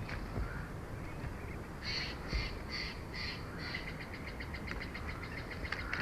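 Bald eagle calling: four or five separate high notes, then a fast chittering run of short pips near the end.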